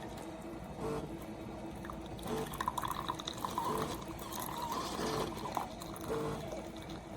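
SIFENE single-serve pod coffee maker dispensing the last of a brew into a mug: coffee spitting and dribbling out a little at a time rather than in a steady stream, as the cycle nears its end.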